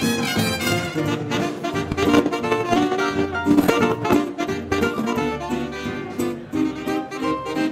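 Big band swing orchestra playing an instrumental passage of a 1930s dance tune, live.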